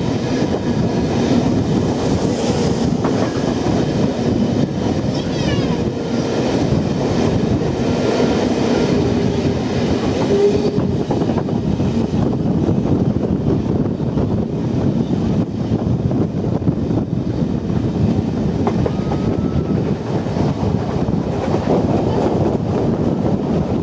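Train running along the track: a steady rumble with the clickety-clack of wheels passing over rail joints, the clicks coming thicker about halfway through.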